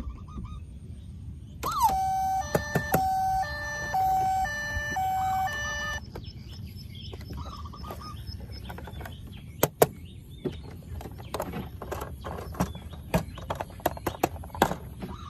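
Battery-powered toy vehicle's electronic sound chip playing a stepped two-note siren tune for about four seconds, followed by scattered clicks and knocks of plastic toys being handled.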